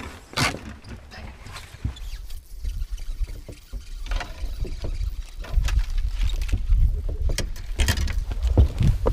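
Irregular knocks and thumps on a bass boat's hull and deck over a low rumble that grows louder from about the middle on.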